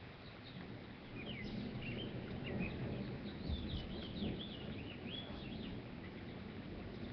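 Songbirds chirping in a quick run of short sweeping notes, over a low rumble that swells about a second in.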